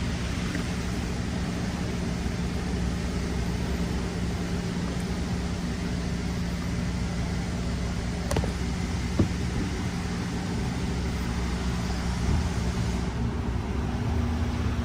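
Steady machine hum and hiss, with two small clicks a little past the middle and a slight shift in the hum's pitch near the end.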